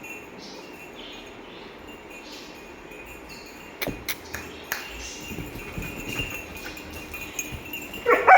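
Quiet background with a few sharp clicks about halfway through, then a German shepherd breaks into a loud bark right at the end.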